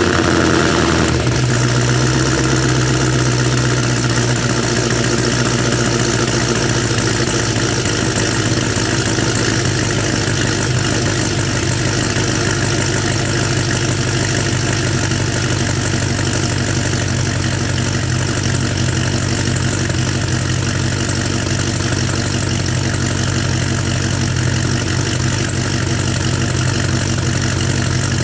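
Cammed Cadillac CTS-V supercharged V8 with long-tube headers and Flowmaster Flow FX mufflers idling steadily after a cold start. The idle has a choppy lope from its BTR Stage 2 camshaft.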